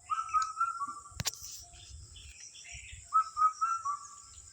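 Outdoor birdsong ambience: a bird repeats a quick phrase of about four short whistled notes twice, over a steady high insect-like trill. There is a single sharp click about a second in.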